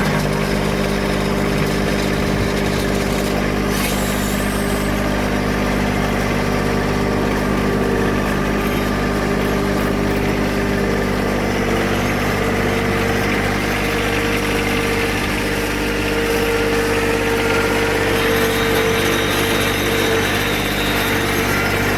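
John Deere 1023 compact tractor's three-cylinder diesel engine running steadily, its pitch shifting slightly about halfway through.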